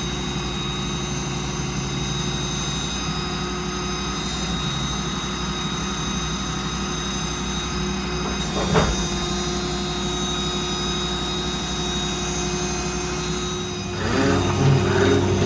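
Ford F-550's 6.7 Power Stroke diesel running with the steady whine of the hydraulic crane system as the crane is operated. A single sharp clunk comes about two-thirds of the way through, and near the end the low rumble drops away as a louder clattering starts.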